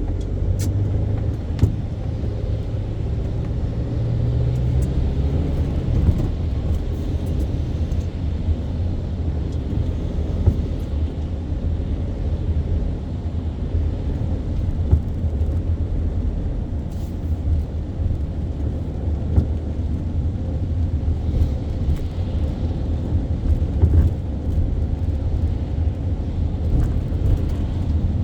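A car driving, with a steady low engine and road rumble; the engine note rises over the first five seconds as it pulls away or accelerates. Faint scattered clicks sound over the rumble.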